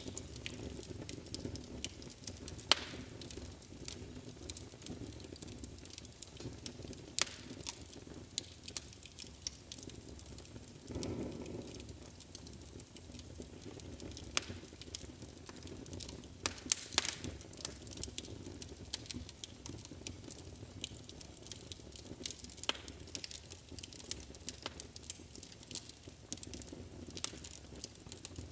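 Wood fire in a fireplace crackling, with sharp irregular pops over a steady low rumble of the flames. A brief, slightly louder low rush of flame comes about halfway through.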